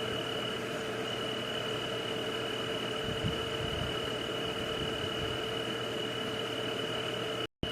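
Steady white-noise night ambience: an even hiss with one high, continuous tone and a lower steady hum. It cuts out for an instant near the end.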